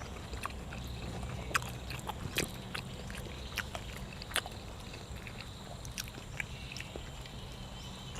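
Close-miked mukbang eating sounds: a person chewing cuttlefish and fresh vegetables, with irregular wet mouth clicks and smacks, over a steady low hum.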